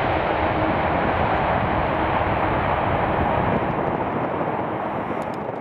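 Jet aircraft engines passing, a steady loud noise that eases slightly near the end.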